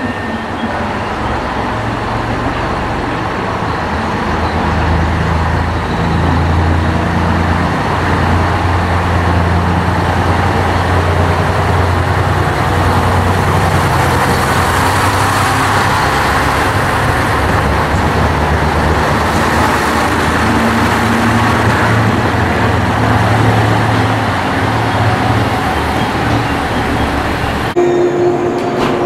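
Diesel express train pulling along a station platform: a steady low engine hum and rumble from its railcars, louder as it passes close. Near the end it cuts off sharply to a quieter hum with a steady tone.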